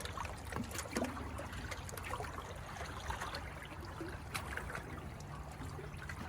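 Floodwater lapping and trickling, with small irregular splashes.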